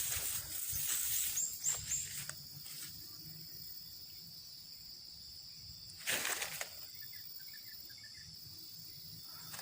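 Steady high-pitched insect drone, with bouts of rustling through vegetation in the first two seconds and again about six seconds in, and a few faint bird chirps.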